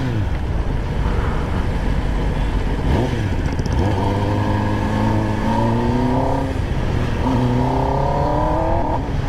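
Kawasaki ZX-10R inline-four engine through a Leo Vince exhaust, pulling hard: its note climbs in pitch from about four seconds in, breaks off briefly, then climbs again from about seven seconds.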